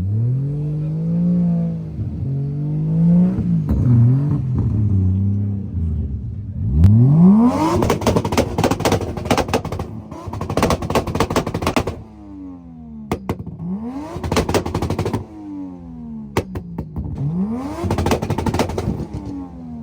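Nissan Skyline R34's turbocharged straight-six accelerating through the gears, its revs climbing and dropping again at each shift. A rapid crackling clatter rides over the top of each hard pull from about seven seconds in.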